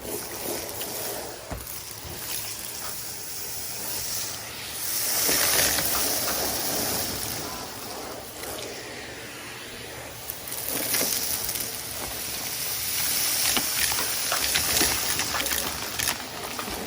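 Henry cylinder vacuum cleaner running and sucking up debris, its rush of air swelling and fading as the nozzle moves, with scattered crackles of bits going up the hose, most of them in the second half.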